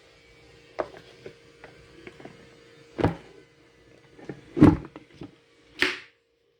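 Scattered knocks and clicks of something being handled, with a heavier thud about four and a half seconds in and a short rustling knock just before the sound cuts off. A faint steady hum runs beneath.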